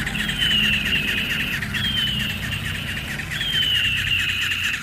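Battery-powered toy eagle's electronic eagle cry, a falling, buzzy screech repeated three times about a second and a half apart, over a steady low hum.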